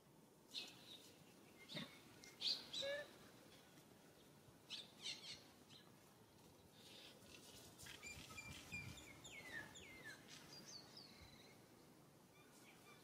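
Birds chirping faintly: scattered short high chirps, loudest a couple of seconds in, then a run of quick falling whistles after the middle.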